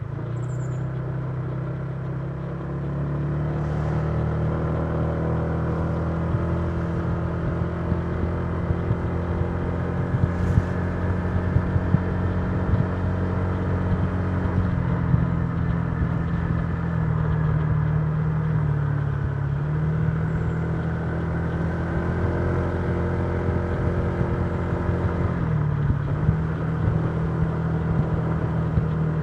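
Honda Giorno 125 scooter's single-cylinder four-stroke engine running steadily while riding. Its pitch rises over the first few seconds, then holds, easing briefly about two-thirds of the way through and again near the end.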